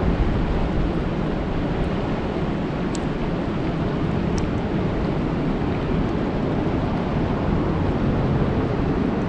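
Steady rain falling on a lake, a constant dense hiss, with a couple of faint high ticks.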